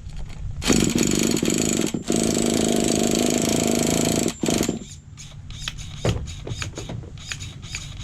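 Small nitro engine of an RC truck starting up and buzzing loudly for about four seconds, with a brief dip after the first second. It then cuts off, leaving a string of light clicks. This is a starting attempt on an engine that is running rough and has been set too lean.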